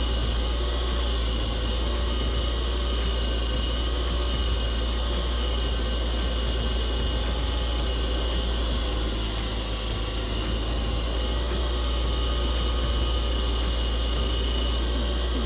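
Wood lathe running steadily with its motor hum, a faint tick coming round about once a second, as a resin turning is polished with abrasive paste.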